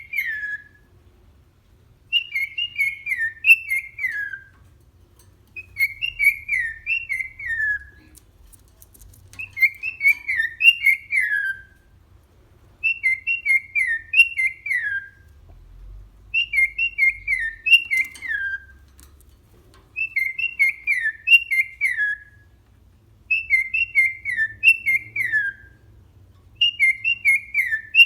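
Cockatiel whistling the same short tune over and over, a phrase of clear chirpy notes ending in falling glides, repeated roughly every three and a half seconds.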